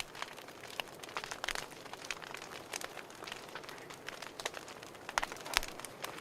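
Wood fire crackling in a fireplace: irregular sharp pops and snaps over a soft steady hiss, one louder pop about five and a half seconds in.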